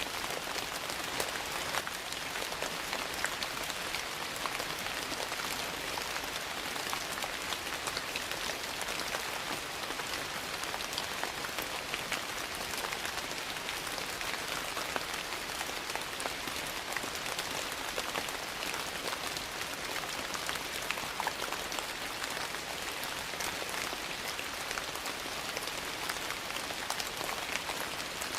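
Steady rain falling, a constant hiss with scattered small ticks and pops, mixed with a wood fire crackling in a fireplace.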